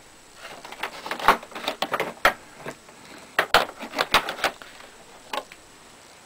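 Irregular clicks and knocks of the plastic parts of a Dirt Devil bagless upright vacuum being handled, about a dozen over five seconds, then quiet.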